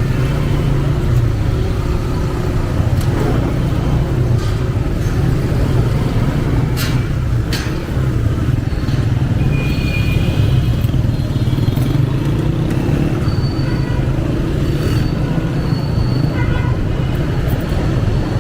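A 125cc motorcycle engine running steadily under way, with surrounding road traffic; a few short clicks about seven seconds in.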